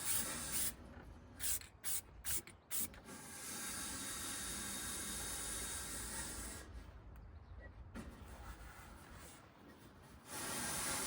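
Masking tape being pulled off the roll in a few short rasping strips, then a steady hiss lasting about three seconds from an aerosol can of John Deere green spray paint.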